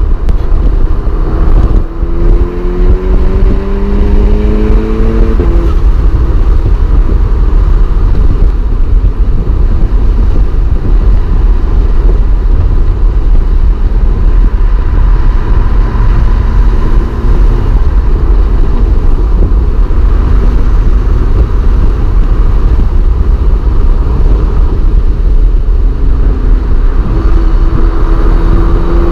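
Stage 2+ tuned Mk6 Volkswagen Golf R's turbocharged four-cylinder, heard from inside the cabin under a dense rumble of road and wind noise. It pulls up through the revs a couple of seconds in and again near the end.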